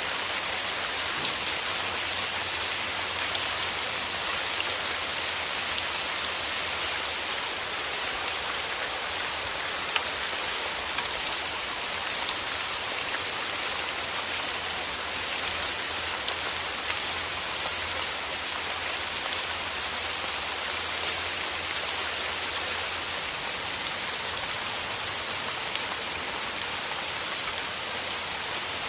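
Steady rain falling, a dense hiss with the small ticks of individual drops hitting surfaces, and a faint low hum underneath.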